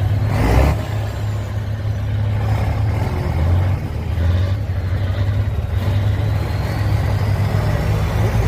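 Heavy truck engine running under load through an off-road trial section, a steady low rumble. A short burst of hissing noise comes about half a second in, and a faint high whine slides up and down in pitch in the second half.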